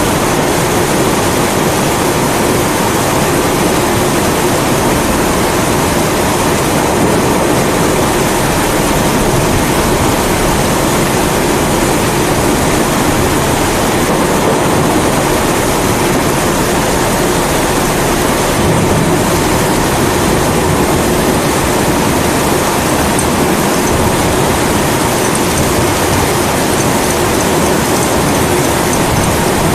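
Pressurised kerosene (Primus-type) stove burner running with a steady rushing hiss, mixed with steady rain.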